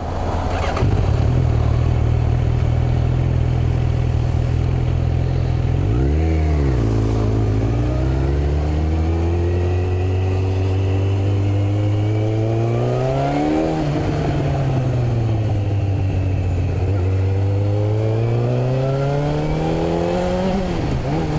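Yamaha Fazer inline-four motorcycle engine with a straight-through exhaust, accelerating under the rider. After a quick rev about six seconds in, the engine note climbs slowly for several seconds, falls back as the throttle eases, then climbs again and drops sharply near the end.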